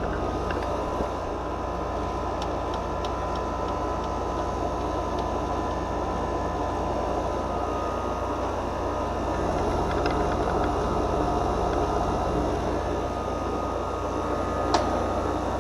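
Steady mechanical drone with a strong low hum, a few faint clicks, and one sharp click near the end.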